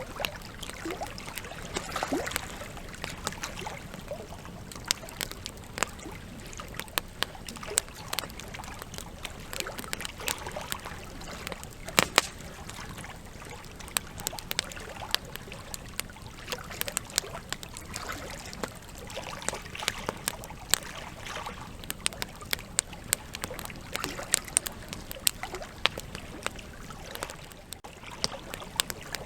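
Wood campfire crackling: burning logs give a steady soft hiss broken by many irregular sharp pops and snaps, one of the loudest about a third of the way through.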